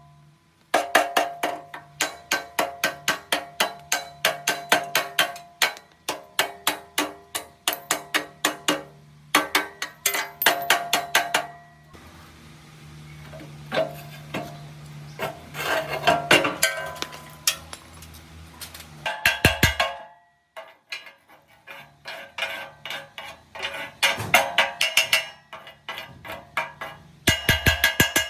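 Repeated hammer blows on a metal part, each ringing, about three to four a second. For several seconds in the middle the blows give way to a steady low hum with scattered knocks.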